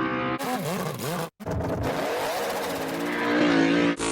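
Motorsport vehicle engines revving, their pitch rising and falling, in quickly edited clips with a brief dropout about a second and a quarter in. The engine note climbs again near the end.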